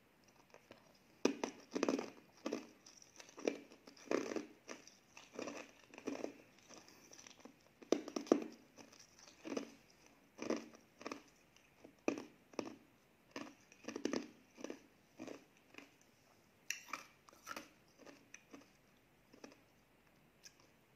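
Close-miked chewing: soft wet mouth sounds in a steady rhythm of about two chews a second, thinning out near the end.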